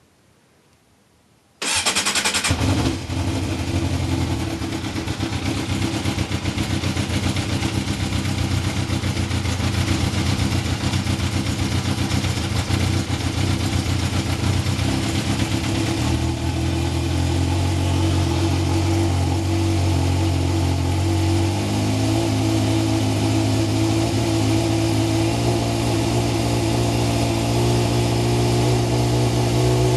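Yamaha YZF600R Thundercat motorcycle's carbureted four-cylinder engine, fitted with a Vance & Hines exhaust, firing up suddenly about two seconds in on its first start after winter storage. It then runs on steadily at idle, its note shifting slightly about twenty seconds in.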